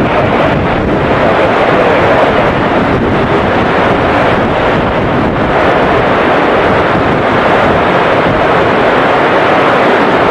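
Strong wind buffeting the microphone in heavy rain: a loud, steady rushing noise.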